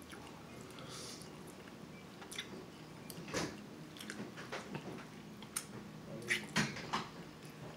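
A person chewing a mouthful of curried chicken and shrimp close to the microphone: scattered wet mouth smacks and clicks that begin a couple of seconds in, the loudest coming about halfway through and near the end.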